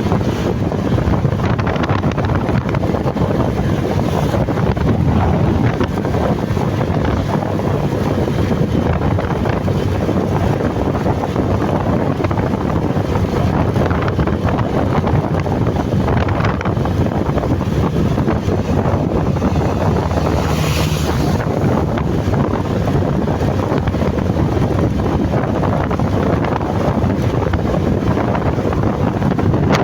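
Wind rushing over the microphone of a moving motorcycle, a steady loud roar with a brief higher hiss about 21 seconds in.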